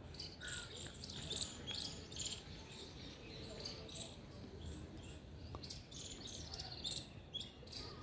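Birds chirping and calling in short, irregular notes, one after another, over a steady low background noise.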